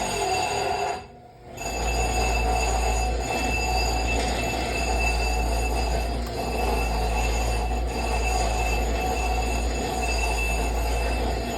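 Grinder running against a steel machine pin, a steady metal-on-metal squeal over a low motor hum, as the pin is ground down to fit its hole. The sound dips briefly about a second in, then carries on unbroken.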